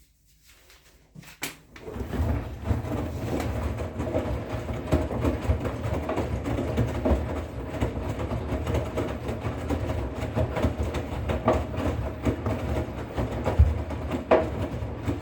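Bosch Serie 6 washing machine running: a steady low rumble with many irregular knocks and clicks, starting about two seconds in after a single click.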